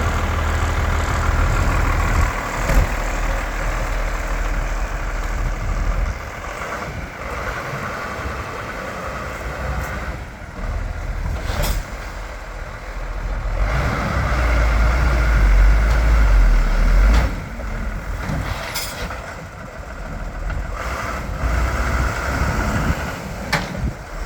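Iveco Eurocargo 80E15's six-cylinder turbo diesel engine running, the low engine sound swelling and easing, loudest about two-thirds of the way in. A few short sharp sounds break in now and then.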